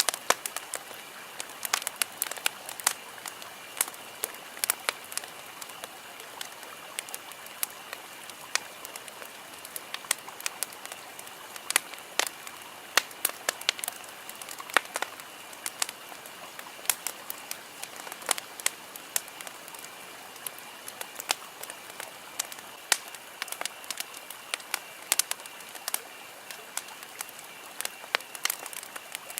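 Wood campfire burning, crackling with frequent sharp, irregular pops over a steady hiss.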